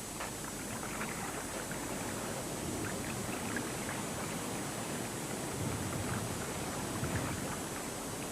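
Gentle water noise: a steady wash with faint small splashes here and there.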